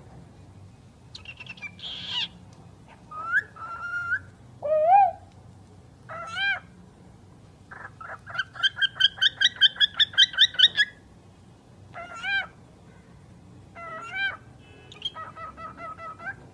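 A pet talking bird calling and whistling in a string of short, pitched, swooping notes, with a fast run of about fifteen repeated notes in the middle.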